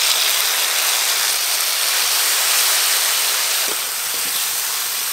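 Masala paste of tomato, ginger, garam masala and cashew sizzling in hot oil in a wok while being stirred with a spatula: a steady hiss that eases a little about three seconds in.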